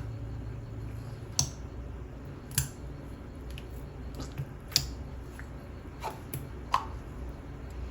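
Thick, chewy slime being stretched and squeezed by hand, giving off scattered sharp clicks and pops, about six in all, over a low steady hum.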